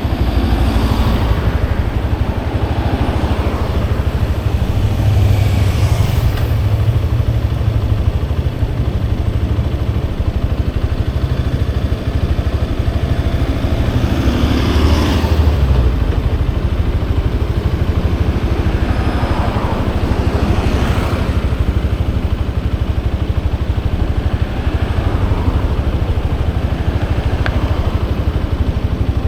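Motorcycle engine running steadily on the move, with traffic swelling past and fading several times.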